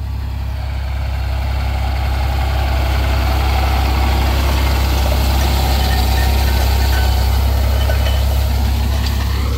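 Vehicle engine running with a steady low drone, growing a little louder over the first few seconds and then holding even.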